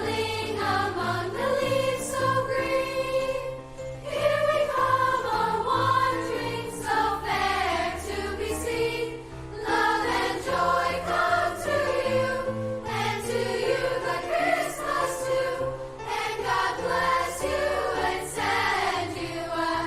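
A choir singing a Christmas song with instrumental accompaniment.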